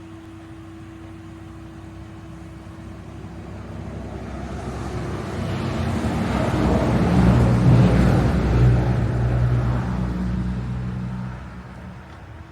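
A motor vehicle drives past: engine and road noise build over several seconds, are loudest about two-thirds of the way through, then fade away.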